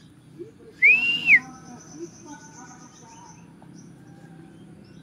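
A loud whistled note that rises, holds and falls, about a second in, followed by a faint high trill that fades out a little after three seconds.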